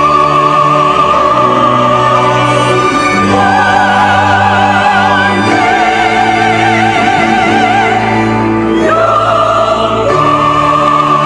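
Church choir singing a sacred choral anthem, holding long notes with vibrato and moving through slow chord changes every few seconds.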